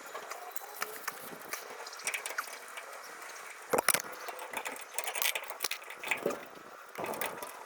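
Scattered clicks and knocks of hand tools and metal parts as an exhaust hanger clamp is worked into place under a pickup. The loudest knock comes about four seconds in.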